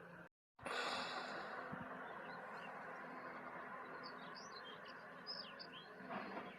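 Outdoor ambience: a steady hiss of background noise, with small birds chirping in quick, short rising-and-falling notes in the second half. The sound drops out completely for a moment near the start.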